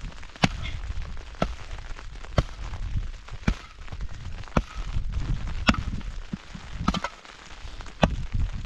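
Sharp strikes at an even pace of about one a second, eight in all, over a low rumble.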